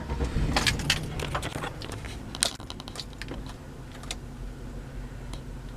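Keys jangling and a few clicks, mostly in the first second, over the steady low hum of the truck's engine idling.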